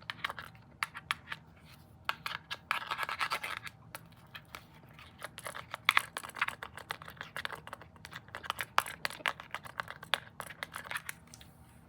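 Rapid, irregular clicking of a remote control's buttons and plastic, with a stretch of scratching a few seconds in.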